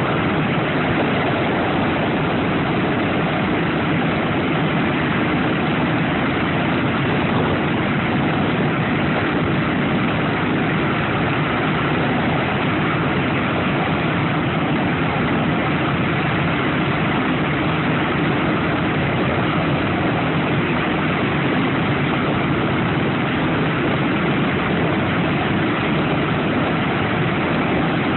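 B-17 Flying Fortress's Wright R-1820 Cyclone nine-cylinder radial engines running steadily, a loud even drone with no change in power.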